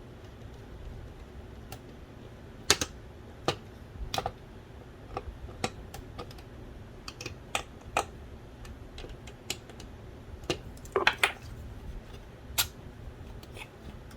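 Irregular sharp clicks and light taps of small parts of an original Xbox's Philips DVD drive being handled and fitted. A quick cluster of clicks comes about eleven seconds in.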